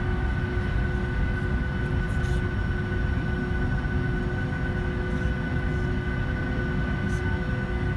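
Cabin noise inside a Boeing 757 under engine power: a steady deep rumble with several constant whining tones from the jet engines, unchanging throughout.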